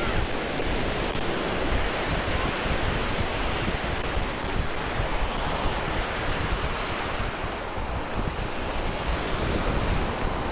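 Ocean surf washing onto the beach, a steady rushing, with wind buffeting the microphone.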